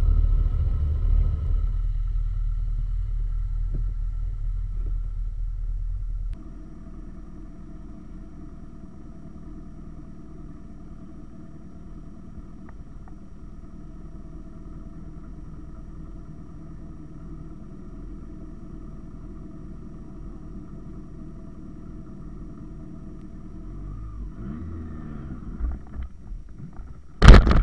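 Motorcycle on the road: a loud, low engine and wind rumble that cuts off abruptly about six seconds in. A quieter, steady engine drone follows, and a single loud knock comes near the end.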